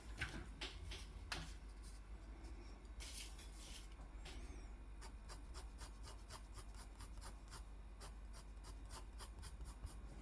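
Faint scratching of a drawing tool on paper as lines are sketched: a run of short quick strokes, with a couple of longer drawn strokes about three seconds in.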